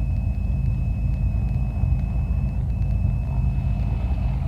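Cessna 310's twin six-cylinder piston engines running steadily at low power on the ground, a deep even rumble, with a faint steady high-pitched whine over it.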